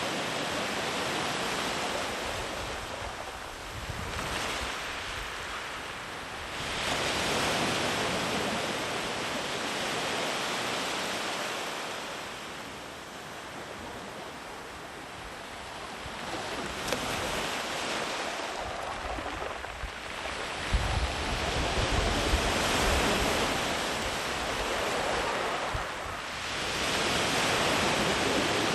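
Sea waves breaking and washing up a beach, the surf swelling and easing every several seconds. A brief low rumble of wind on the microphone comes about two-thirds of the way in.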